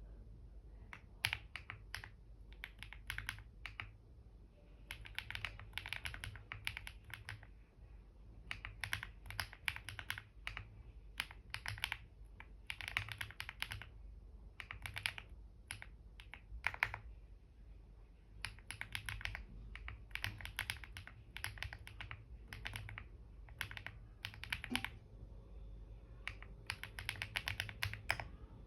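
Typing on a computer keyboard: bursts of quick key clicks lasting a second or two each, broken by short pauses.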